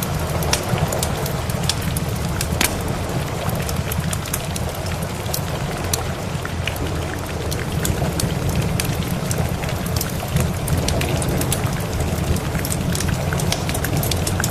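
Wood fire crackling with frequent small pops over steady rain, with a constant low rumble underneath.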